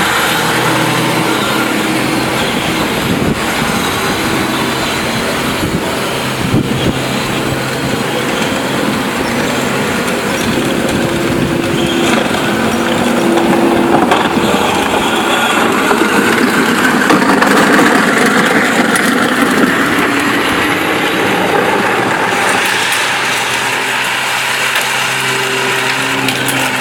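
ATV engine running steadily, rising in pitch and loudness for a few seconds around the middle before settling again.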